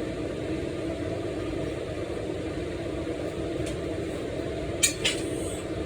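Steady, even mechanical hum from a kitchen appliance such as a running fan or motor, with two short clinks about five seconds in.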